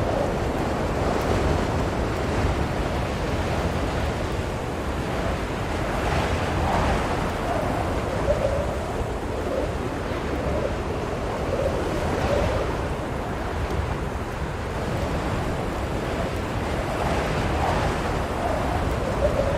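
Blizzard wind blowing steadily, with a faint wavering whistle and gusts that swell a few times.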